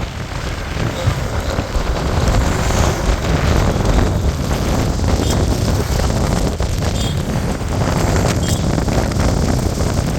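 Wind buffeting the microphone on a moving motorcycle, with the bike's running and road noise underneath; the rush grows a little louder about two seconds in.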